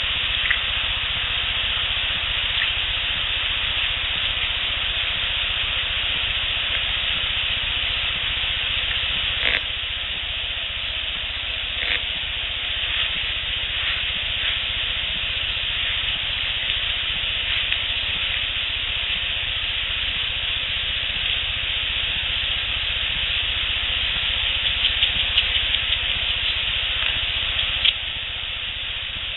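Steady hiss of a heavily amplified outdoor field recording, with a few scattered faint clicks, a quick run of ticks about 25 seconds in, and a sharper click near the end, after which the hiss drops slightly.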